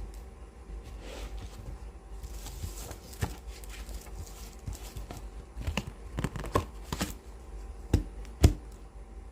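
Fingers tapping on and handling books: scattered knocks and taps, the loudest two close together near the end, with a brief papery rustle about two to three seconds in.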